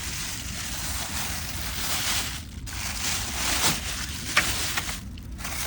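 Plastic sheeting rustling and crinkling as it is handled and pulled over a rainwater bucket, with two brief pauses and a couple of sharp crackles.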